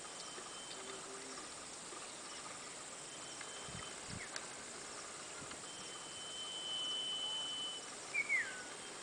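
Outdoor background hiss with a thin, high whistle held steady for about two seconds, then a short bird call falling in pitch near the end; a couple of soft low thuds come in the middle.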